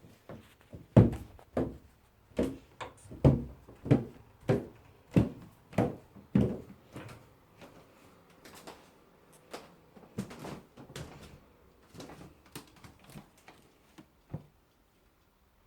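Footsteps: a run of heavy thuds at walking pace, loud at first, then fainter and more irregular for the later part.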